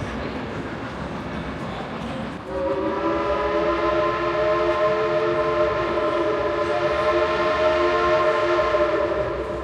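Steam train whistle blowing one long chord, starting about two and a half seconds in and held for about seven seconds before dying away near the end.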